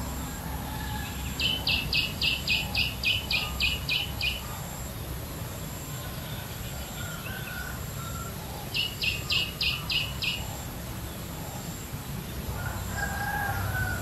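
A bird calling a fast series of sharp, repeated notes, about four a second: a run of about eleven, then a shorter run of six later on. Softer bird notes and steady low background noise are underneath.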